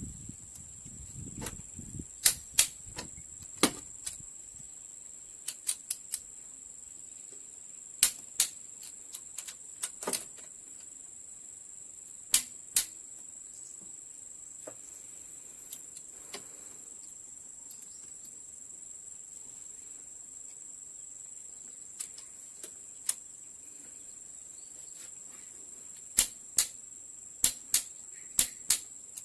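Sharp clicks and taps of tools and metal engine parts being handled, scattered singly and in quick pairs and clusters, over a steady high-pitched hiss.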